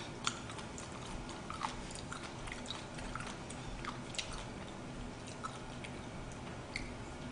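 A woman chewing a mouthful of food with her mouth close to the microphone: faint scattered wet clicks and small smacks over a quiet background.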